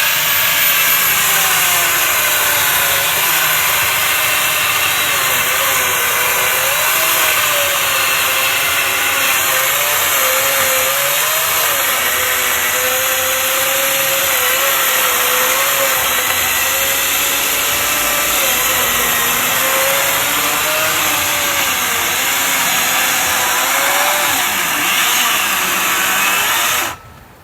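Bosch angle grinder fitted with a mini chainsaw attachment, its electric motor running hard as the worn chain cuts into a thick branch; the motor pitch wavers up and down with the load. It stops suddenly near the end.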